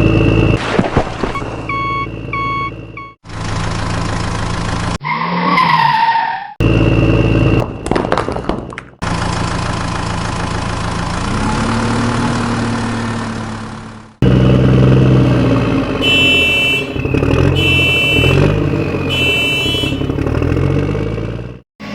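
A string of vehicle sound effects cut abruptly one into the next: a steady engine hum, short repeated beeps about two seconds in, and three honk-like tones in the last third.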